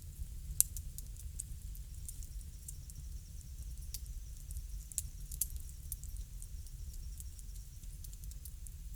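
Crackling wood fire: scattered sharp pops and snaps over a steady low rumble, with one louder pop about half a second in.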